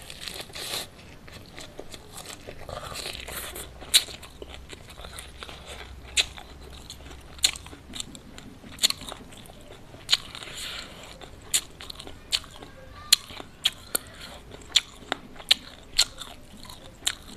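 Close-miked chewing of crunchy food. A bite of raw lettuce at the start is followed by a string of sharp crunches, which come about once or twice a second in the second half.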